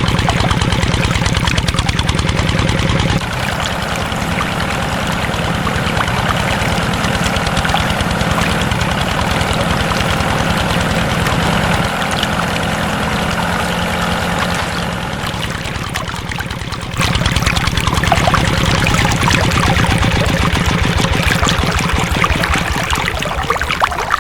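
A small engine running with a rapid, even beat. The sound changes abruptly several times, quieter from about three seconds in and louder again past the middle.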